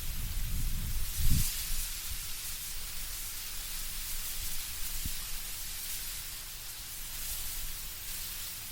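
Wind moving through autumn trees, the leaves rustling in a steady hiss. A low gust rumbles at the start and dies away about a second and a half in.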